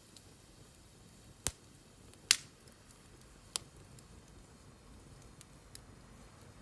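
Wood fire crackling: three sharp pops about a second apart, the middle one the loudest, then a few faint ticks over a low steady hiss.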